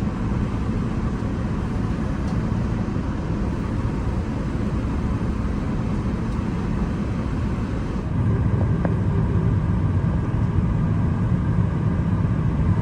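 Airbus A380 cabin noise: a steady low rumble that gets louder about eight seconds in.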